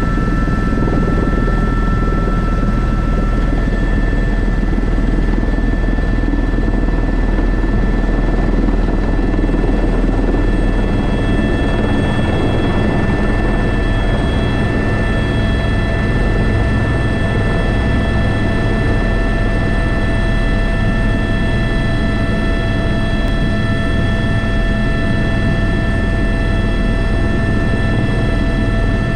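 Airbus H125 (AS350 B3) single-turbine helicopter in flight: a steady heavy rotor rumble, with a turbine whine made of several steady high tones on top.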